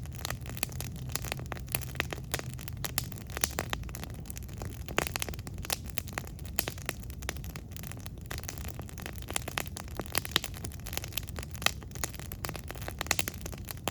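Wood campfire crackling, with irregular sharp pops and snaps over a low steady rush of flame.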